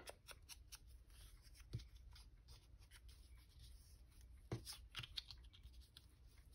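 Faint handling of paper: soft rustles and a few light taps and clicks, the clearest about two seconds in and twice more after the middle.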